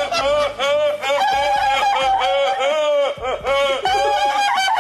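A man's odd high-pitched laugh: a quick run of hoots that rise and fall in pitch, about three a second.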